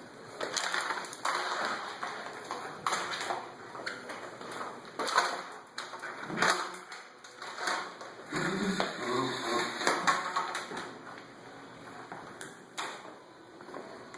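Schnauzer scuffling with a vacuum cleaner: irregular scrapes, knocks and taps of the dog pushing and mouthing the machine, with a short low growl about nine seconds in.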